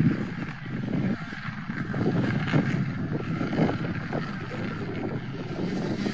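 Rally car engine running, a rough rumble with irregular crackles and a few louder surges.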